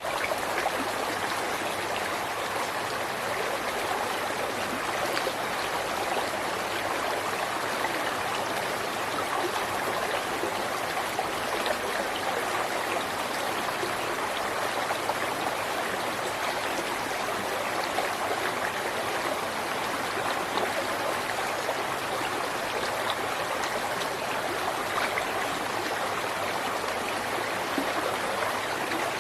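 A river flowing, a steady rush of running water with small splashes and trickles throughout.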